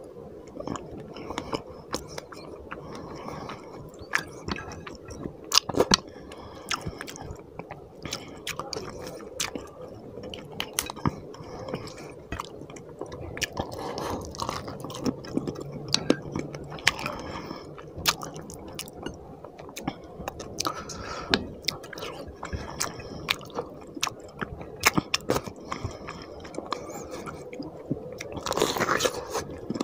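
Close-miked chewing of rice and fish curry eaten by hand, full of wet mouth smacks and clicks, with squelching of the gravy-soaked rice. A short low hum comes about halfway through, and there is a louder, noisier stretch near the end.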